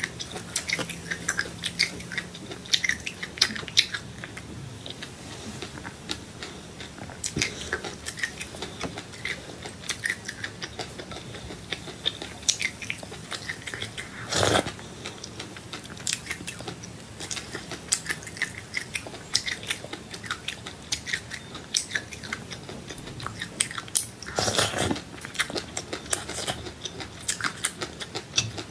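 A person biting and chewing crunchy seeds: a steady run of small crackling clicks, with two louder crunches about 14 seconds in and around 25 seconds.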